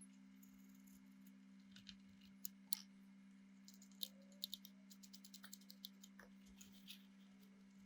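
Near silence: a faint steady low hum with scattered light clicks and ticks.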